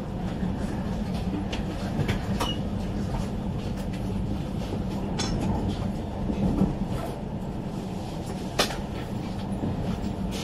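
Steady running noise of a high-speed train heard from inside the carriage: a continuous low rumble with a steady hum, broken by a few sharp clicks, one standing out near the end.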